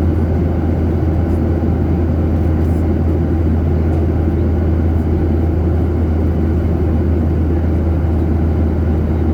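Steady drone of a jet airliner heard inside the cabin: a deep, constant engine hum under an even rush of air.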